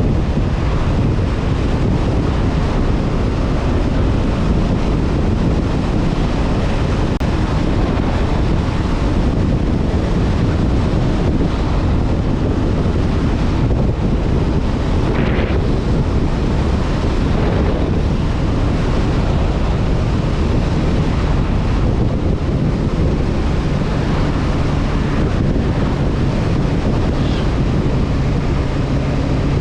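Wind buffeting a GoPro microphone on a moving motorcycle, a steady loud rush, with the Honda CB500F's parallel-twin engine running underneath and a steady engine tone showing more clearly near the end.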